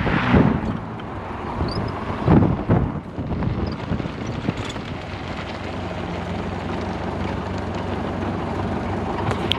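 Model A speedster's engine running steadily, with wind buffeting the microphone and a couple of louder swells in the first few seconds.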